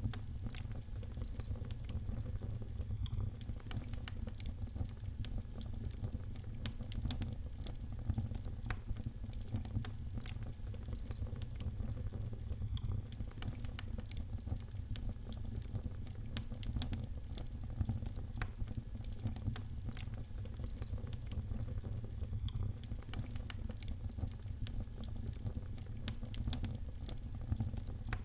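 Wood fire crackling steadily: dense, irregular pops and snaps over a low, steady rumble.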